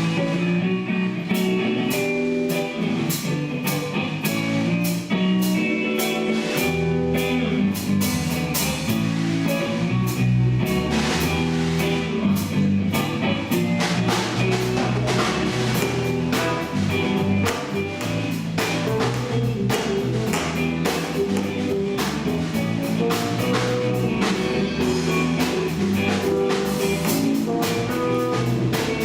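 A band playing an instrumental passage on guitar and drum kit. A low bass line comes in about seven seconds in, and the drumming gets fuller about halfway through.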